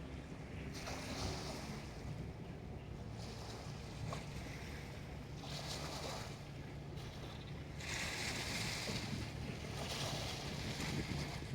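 Small harbour waves washing in and out in repeated surges every few seconds, the longest near the end, over a steady low hum.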